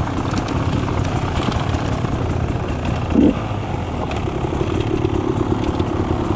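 Beta 300 RR two-stroke enduro motorcycle engine running steadily while riding single track. There is a brief louder burst about three seconds in.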